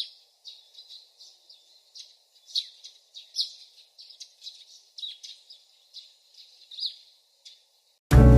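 Small birds chirping in many short, quick calls, several falling in pitch. Loud music with drums cuts in suddenly near the end.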